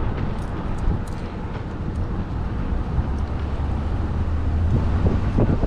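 A car driving along a road, heard from inside the cabin: a steady low rumble of road and engine noise.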